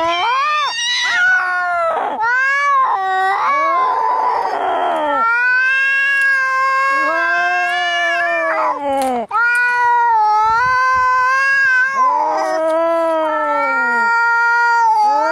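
Domestic cats caterwauling in a fight: long, drawn-out yowls that bend up and down in pitch, one after another, with a harsh, noisy outburst about four seconds in.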